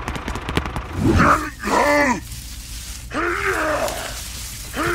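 A man's voice groaning with effort three times, each groan rising and then falling in pitch, with rapid clicking in the first second.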